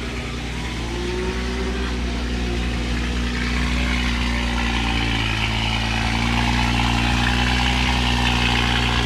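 A car engine running steadily at idle, a deep even rumble with a steady hum; it steps up slightly about five seconds in.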